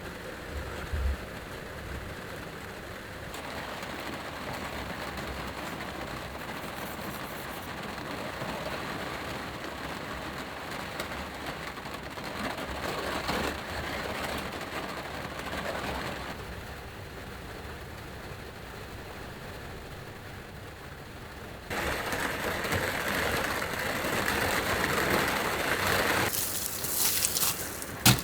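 Heavy rain on the roof and body of a kei van, heard from inside, a steady wash of noise that suddenly grows louder and brighter about three quarters of the way through.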